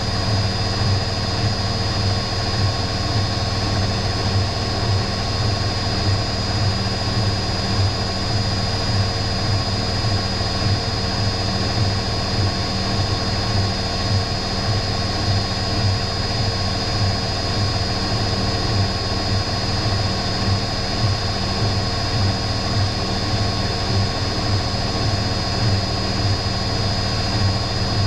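Electrolux EW6S404WU washing machine running steadily: a constant motor drone with a pulsing low hum and a thin high whine, with no pauses.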